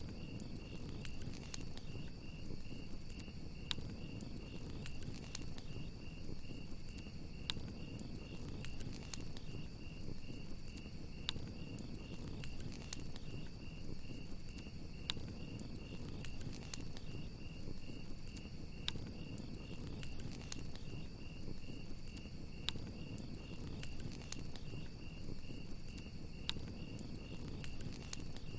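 Crickets chirping in a steady, even pulse, over the low crackle of a campfire with sharp wood pops scattered throughout.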